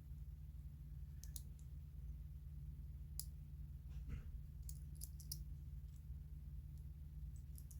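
Scattered light clicks of small tools and parts being handled on an old watch under restoration, in irregular small clusters rather than an even tick, over a steady low hum.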